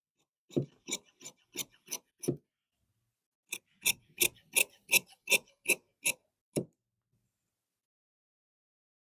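Tailor's shears cutting cloth: a run of six crisp snips, a pause of about a second, then nine more, about three a second.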